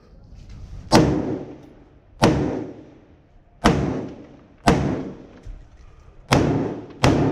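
Six single gunshots, fired about a second to a second and a half apart, each a sharp crack followed by a fading echo.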